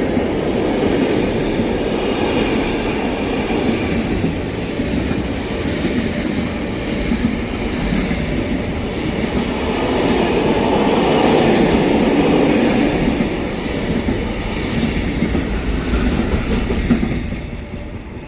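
Train passing close by, its rolling noise steady and loud, then falling away near the end as it clears.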